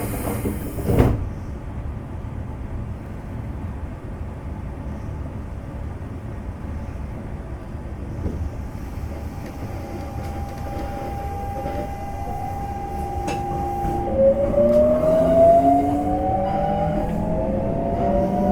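Cabin of a Semboku Rapid Railway 5000 series electric train: a hiss of air ends with a thump about a second in, over the low rumble of the car with its air conditioning running. About nine seconds in the Hitachi GTO VVVF inverter starts to whine with a steady tone, and from about fourteen seconds several whining tones rise together and grow louder as the train accelerates away from the stop.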